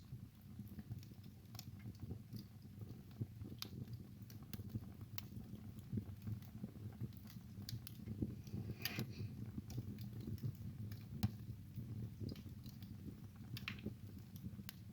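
Wood fire crackling: irregular sharp pops and snaps over a low, steady rumble of burning logs, with a short hiss about nine seconds in.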